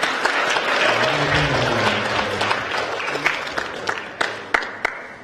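Audience applauding, dense at first, then thinning to a few scattered claps near the end.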